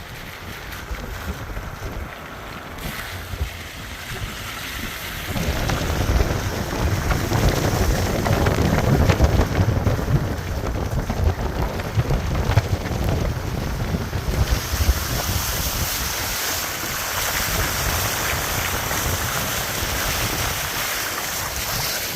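Heavy monsoon rainstorm: steady rain with wind rumbling on the microphone, growing louder about five seconds in, and a thicker hiss of rain from about fourteen seconds.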